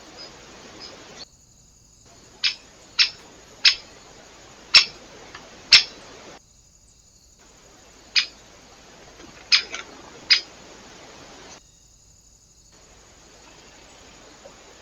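Small birds at a feeder giving short, sharp, high call notes, single chips or pairs, about every half second to a second, over a steady background hiss. The sound drops out briefly three times.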